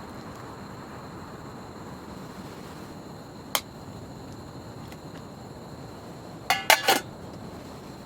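Dishes or utensils clinking: one sharp clink about three and a half seconds in, then a quick run of three or four ringing clinks near the end, over a steady background hiss.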